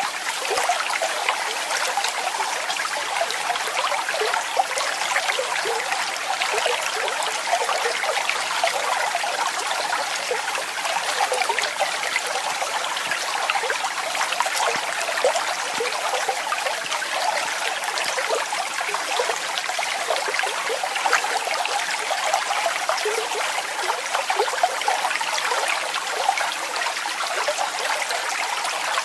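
Waterfall, water falling and splashing steadily as a dense patter of small splashes, with little deep rumble.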